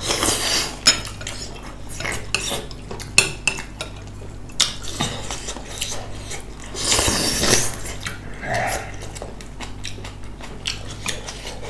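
Eating utensils clinking and scraping against bowls and dishes in many short, irregular clicks, with two longer hissy stretches: one at the start and one about seven seconds in.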